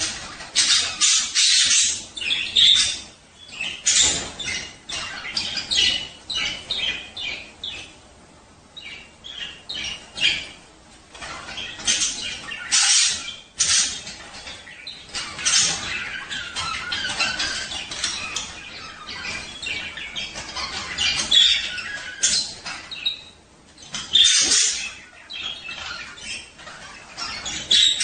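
Budgerigars chattering and warbling: a dense, irregular run of quick squawks and chirps with short pauses between them. This is the courtship chatter of budgies in breeding condition.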